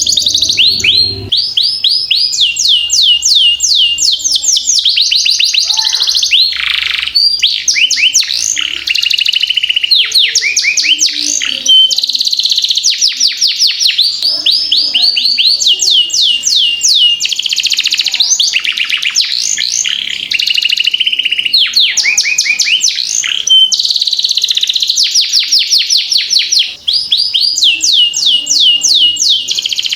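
Domestic canary singing without pause in long, fast rolling trills: runs of rapidly repeated sweeping high notes, one roll straight after another.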